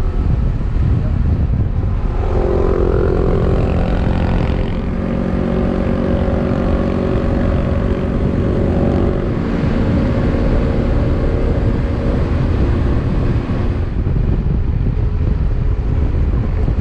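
Motorcycle engine running steadily at road speed, with wind rushing past the bike-mounted microphone; the engine tone comes up stronger about two seconds in and holds.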